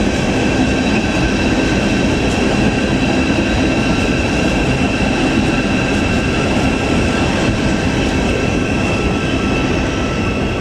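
Thameslink Class 700 electric multiple unit moving through the station at close range: a steady, multi-tone electric whine from its traction equipment over the rumble of wheels on the track.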